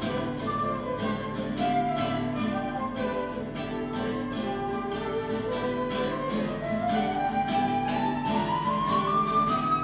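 Flute and guitar duo playing: the guitar plucks a steady run of notes while the flute's melody drifts down and then climbs steadily higher through the second half.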